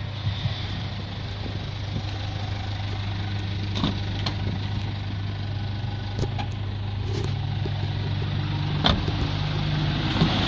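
Mitsubishi 4D56 2.5-litre turbo diesel engine idling steadily, with a few light clicks about four seconds in and again near the end.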